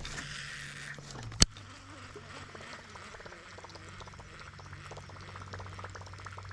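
Small electric trolling motor humming steadily, its pitch stepping down after a sharp click about a second and a half in, with light water gurgling and faint ticking.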